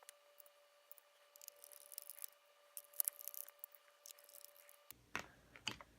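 Faint scattered clicks and light rustling of plastic robot-vacuum parts being handled during reassembly, with two sharper clicks near the end.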